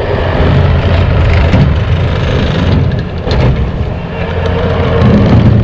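Bobcat T595 compact track loader's diesel engine running steadily, driving its SB200 snowblower attachment: a low engine drone under a broad noisy rush, easing off briefly past the middle and swelling again near the end.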